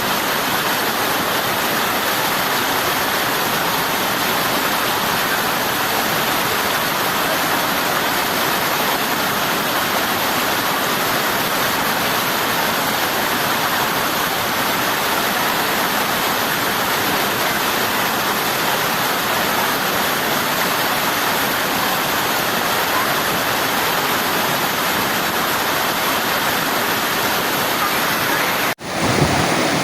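River water rushing steadily. It drops out for an instant near the end and then resumes.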